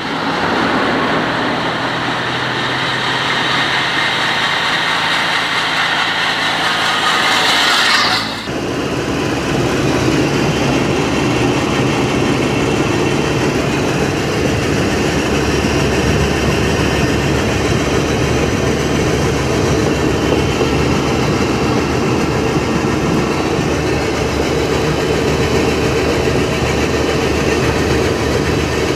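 A car engine running as the vehicle drives. About eight seconds in the sound changes abruptly to a lower, rougher engine note with fast even pulsing.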